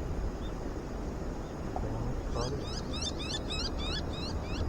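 A bird calling with a fast series of short, high chirps, about four or five a second, starting a little past halfway in, over a steady low outdoor rumble.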